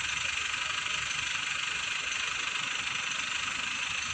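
Engine of an Escorts Hydra crane running steadily, with a steady hiss over a low rumble.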